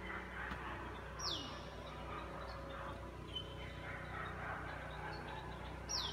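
Birds calling outdoors: two loud whistles that sweep sharply downward, one about a second in and one near the end, with shorter high single notes between them.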